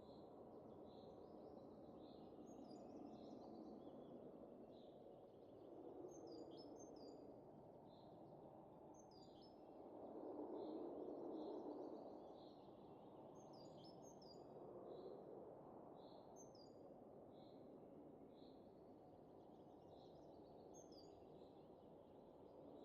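Faint winter wind, a steady rush that swells into a stronger gust about ten seconds in, with small birds chirping in short, evenly repeated high notes over it.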